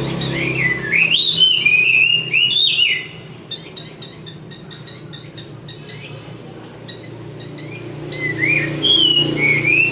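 Chinese hwamei (laughingthrush) singing loud, quickly rising and falling whistled phrases for the first three seconds and again near the end, with softer chirps and clicks in between. This is the hwamei's challenge song, two birds singing against each other.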